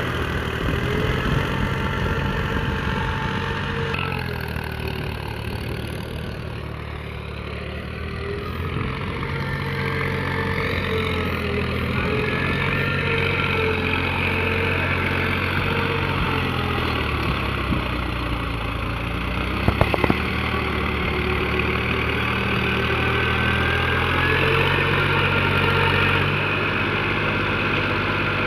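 Mahindra tractor's diesel engine running steadily, easing off about a quarter of the way in and picking up again, with a couple of sharp clicks about two-thirds of the way through.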